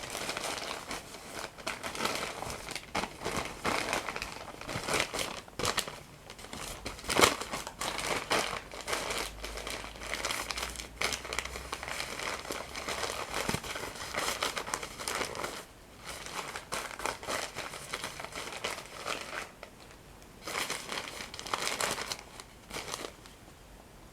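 Paper being crumpled and crinkled close to the microphone in dense crackling bursts, with one sharper, louder crackle about seven seconds in and brief lulls, stopping just before the end.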